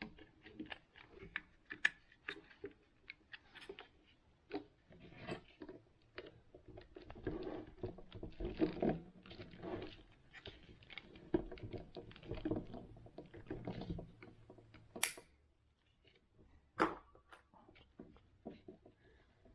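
Hands handling and fitting small plastic parts and screws of a steering-wheel cruise control switch: scattered light clicks, taps and rustles, with two sharper clicks late on.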